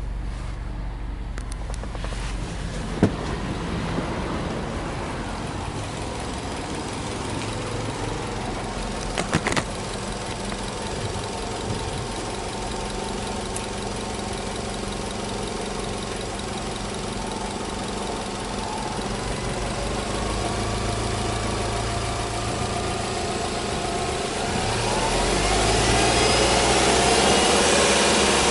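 Subaru Legacy 2.0 GT spec.B's EJ20 turbocharged flat-four boxer engine idling steadily, with a couple of short knocks about three and nine seconds in. The engine sound grows louder over the last several seconds.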